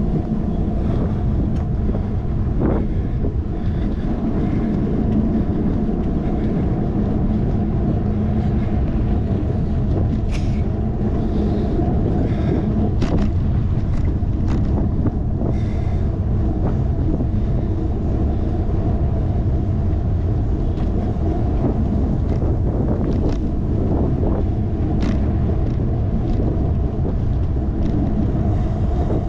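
Riding noise picked up by a handlebar-mounted GoPro on a moving bicycle: steady low wind buffeting and tyre-and-road rumble, with a few short clicks and rattles scattered through.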